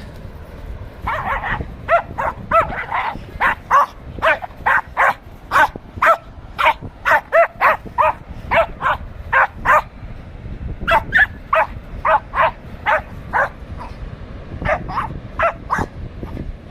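Dog barking over and over, about two barks a second, with a brief pause around ten seconds in, over a steady low rumble.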